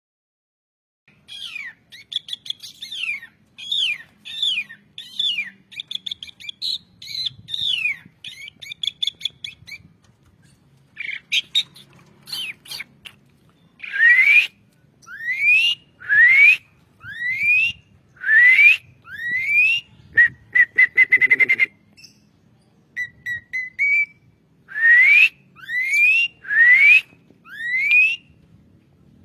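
Javan pied starling (jalak suren) singing: a varied run of quick whistles and chattering notes, then loud rising whistles about one a second, broken by a short buzzy rattle.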